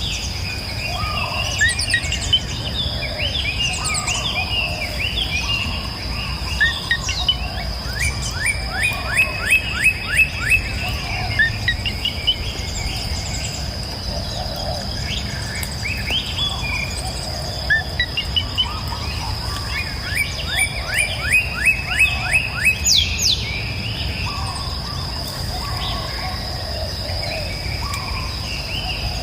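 Several songbirds singing and chirping. Twice a bird gives a fast run of rising notes, about four a second. A steady high-pitched tone and the low rush of a river run underneath.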